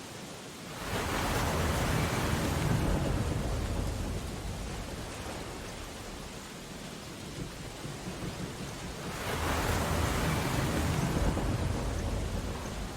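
Two big storm waves crashing, each a swell of rushing noise that rises quickly, holds for a few seconds and slowly fades, the first about a second in and the second near nine seconds, over steady rain on window glass.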